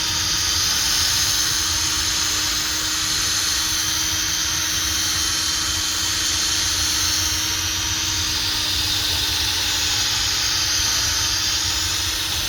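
Power drill with a sanding pad running steadily against a plastic headlight lens: a constant whirring hum under a dense scrubbing hiss as 800-grit paper sands off the yellowed haze, worked with light pressure.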